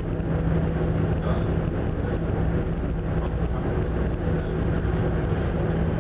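Steady low drone of the Ogasawara Maru ferry's engines and machinery under way, with a constant hum that holds even throughout.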